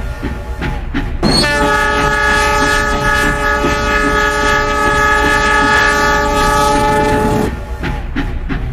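Mak Itam steam locomotive sounding one long whistle blast of about six seconds, starting about a second in, over the regular rhythmic beat of the running train.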